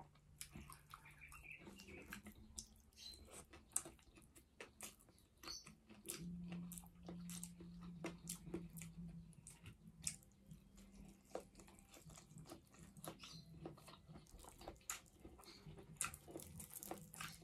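Close-up mouth sounds of someone eating with their fingers: quiet chewing and biting, many small wet clicks and light crunches, with a faint low hum underneath.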